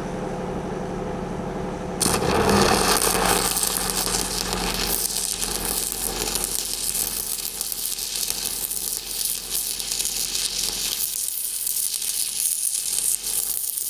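Stick welding with an 8010 cellulosic pipeliner rod on a pipe fill pass: the arc strikes about two seconds in and then crackles and sputters steadily. Before it strikes there is a steady hum.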